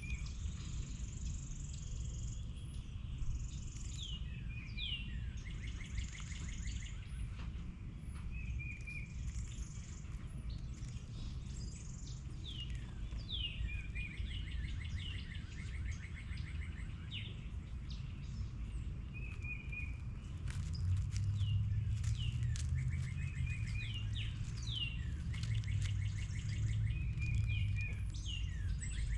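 Several songbirds calling and singing: repeated short downslurred whistles, rapid rattling trills and high thin notes, over a steady low rumble that grows louder about two-thirds of the way through.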